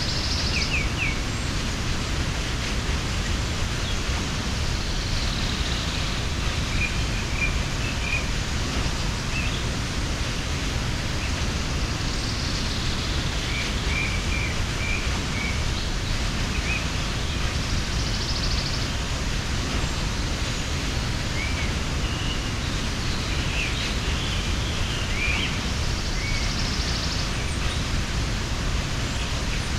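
Steady rushing of a mountain waterfall, with small birds chirping briefly now and then over it.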